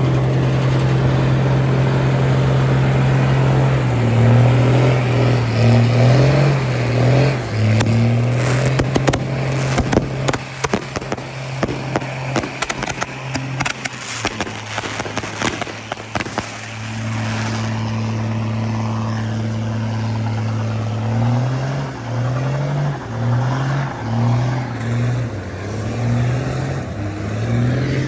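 Vehicle engine held at high revs in a burnout, its pitch jumping up and down again and again as the throttle is worked, with a stretch of crackling in the middle.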